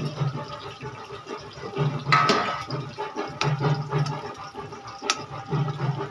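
Eggplant pieces deep-frying in hot oil in a kadhai: a steady sizzle, with a low hum that swells and fades every second or so and a few sharp clicks, the loudest about two seconds in.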